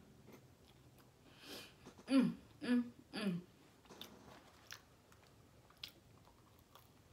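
A person chewing and biting into a sub sandwich, with small wet mouth clicks. About two seconds in come three short vocal sounds, each falling in pitch.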